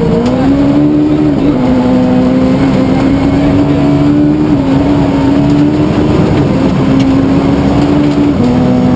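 Suzuki Swift rally car's engine revving up in the first second, then held at high revs at full speed on the stage, dropping slightly in pitch a few times.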